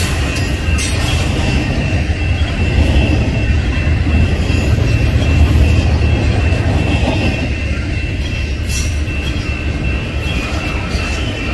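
Double-stack intermodal container train rolling past at close range: a steady rumble of well-car wheels on the rails, with a thin, steady high squeal running through it.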